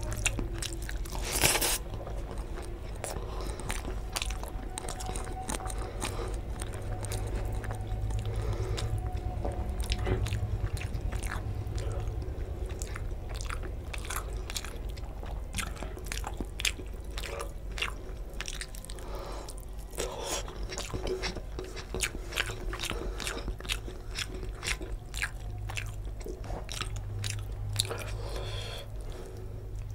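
Close-miked eating of tilapia fish curry with rice by hand: steady chewing with many short wet clicks and crunches, one louder crunch about a second and a half in.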